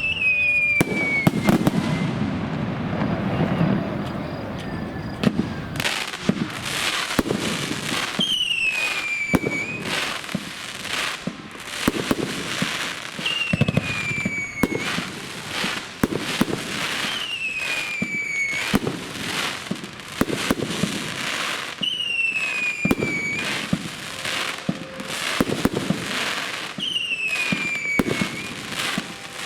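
Fireworks display: repeated bangs of bursting shells with crackle. A high whistle falling in pitch recurs about every five seconds.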